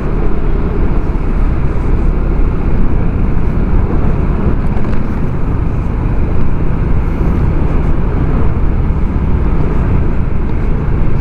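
Steady wind rushing over the microphone together with the engine and road noise of a Yamaha Aerox 155 scooter under way.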